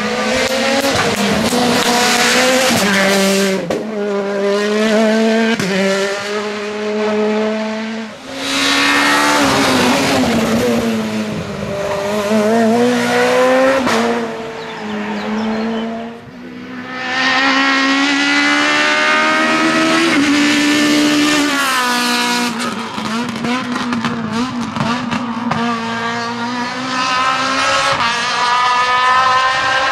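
Rally cars driven flat out, engines revving high and dropping back at each gear change, with tyres squealing. The sound dips briefly twice, about 8 and 16 seconds in.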